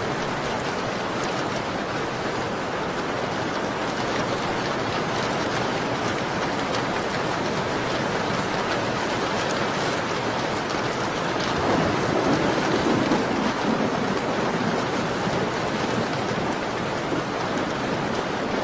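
Steady rain on a window glass, an even hiss with faint scattered ticks of drops. A low swell rises and falls briefly about twelve seconds in.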